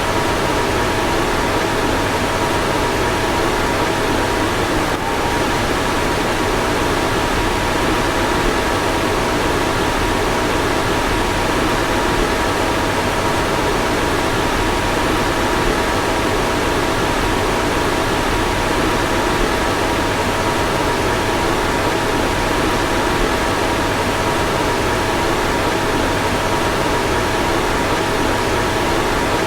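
Car fan running steadily: an even rush of blown air with a faint constant whine of a couple of steady tones over it.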